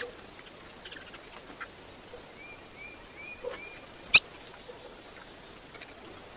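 Small birds at a feeder: four short chirps in quick succession near the middle, then one sharp loud click a little after, over faint scattered ticks and a steady hiss.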